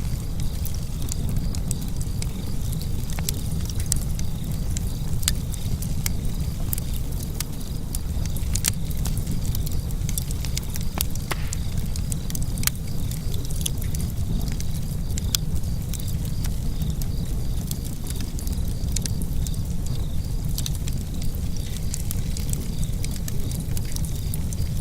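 Wood fire burning in a fireplace: a steady low rumble of the flames with many irregular sharp crackles and pops from the burning logs.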